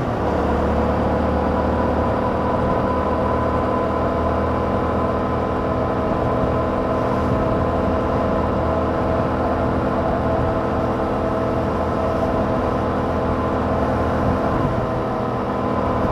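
Yamaha MT-07's 689 cc parallel-twin engine running through its stock exhaust at fairly steady revs while riding. The engine note drops slightly at the start, then holds and picks up a little near the end.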